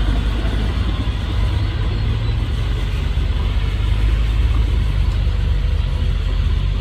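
Heavy earthmoving machine's diesel engine running steadily under load, a continuous low rumble.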